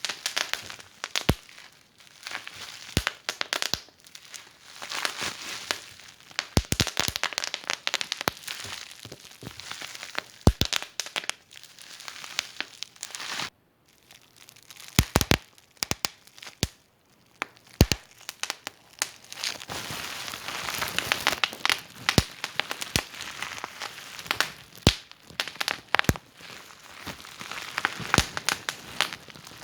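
Wood fire in a fireplace crackling, with irregular sharp pops and snaps, denser in clusters, and a brief dropout about fourteen seconds in.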